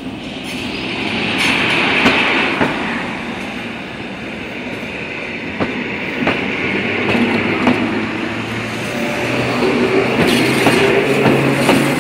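Electric multiple unit passing close by. The rail noise swells as it arrives, the wheels click over rail joints several times, and a low steady hum sets in from about seven seconds in as the carriages go past.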